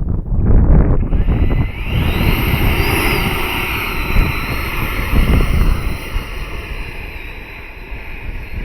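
Electric ducted fan of a Freewing T-45 Goshawk RC jet spooling up: a high whine rises in pitch about a second in, then holds steady. Heavy wind buffeting on the microphone runs underneath.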